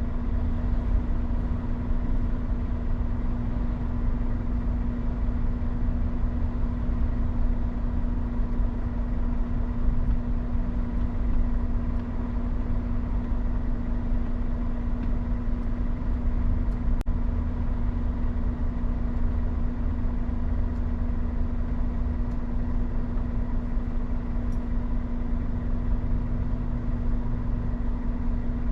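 Scania R450 truck's diesel engine running at a steady speed: an even hum over a low rumble, with no change in pitch.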